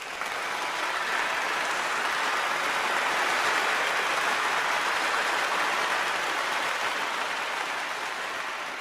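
A steady rushing noise with no pitch, swelling over the first three seconds and slowly fading toward the end.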